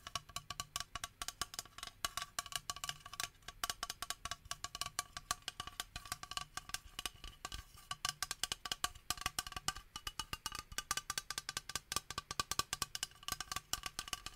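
Rapid, irregular tapping on a toner bottle: quick, hard clicks that each ring briefly at the same pitch.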